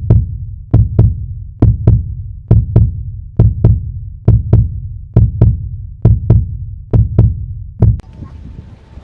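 Heartbeat sound effect: a deep double thump, lub-dub, repeating a little faster than once a second. It stops about eight seconds in and leaves a faint hum.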